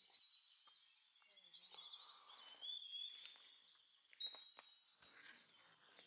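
Faint birdsong: several birds giving short high chirps and whistled phrases, busiest around the middle.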